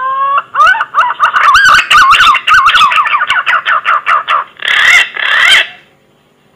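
Green pigeon (punai) song. It opens with a rising whistle, runs into quick, wavering warbled whistles, and ends with two harsher, rougher notes about five seconds in.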